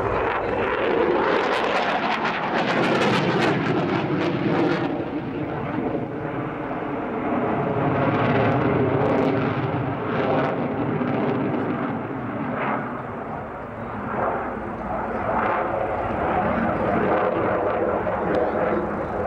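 Display aircraft engine noise, a continuous broad rush with a pitch that slowly shifts as the aircraft flies its display.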